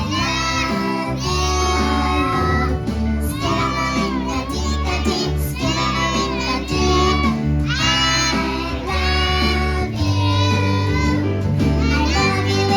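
A group of young children singing along to accompanying music with a steady bass line.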